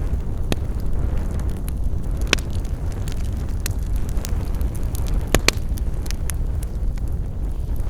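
Wood fire crackling in a fireplace: a steady low rumble of the flames with scattered sharp pops, the loudest about two and a half and five and a half seconds in.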